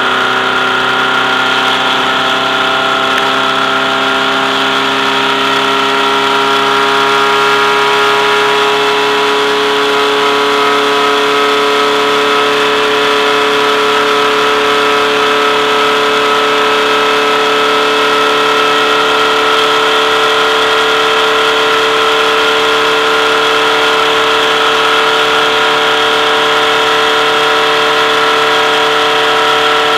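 VW race car's engine heard from inside the cabin, running hard at a steady pace with its pitch creeping slowly upward as the car gathers speed.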